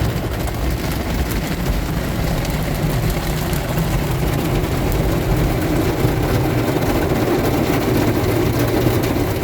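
Ryko automatic car wash machinery running around the car, heard from inside the cabin: a steady, even rumble and wash of spray noise, slightly fuller in the second half.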